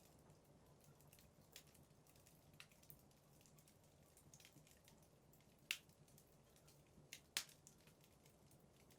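Wood fire burning in a fireplace, faintly crackling with scattered small clicks and two sharp pops from the burning logs in the second half.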